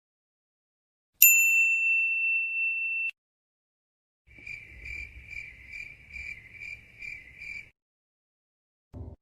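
A single bright ding that rings for about two seconds and cuts off. After a pause comes a cricket-chirp sound effect: about eight evenly spaced chirps over roughly three seconds, with a low rumble beneath them.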